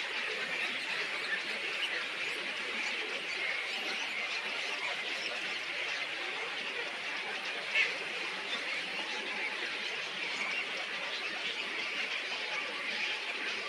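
A dense chorus of many small birds chirping all at once, with one brief louder note just before eight seconds in.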